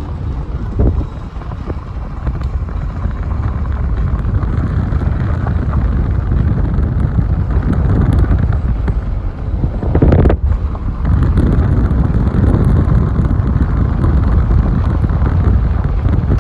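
Steady low rumble of a car driving along a road, with wind buffeting the microphone.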